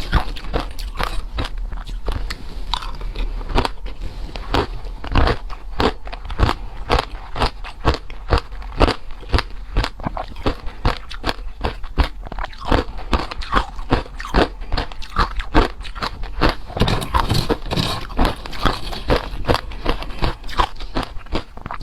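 Close-miked crunching of hard crushed ice between the teeth: rapid, irregular sharp cracks, several a second, with no pause.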